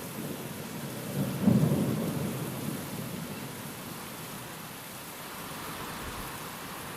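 Steady rain with a single roll of thunder that breaks sharply about a second and a half in and rumbles away over the next few seconds.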